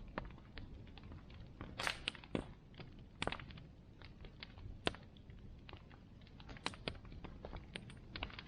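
Wood bonfire crackling: irregular sharp snaps and pops over a low steady rumble of the flames, with a few louder pops about two, three, five and seven seconds in.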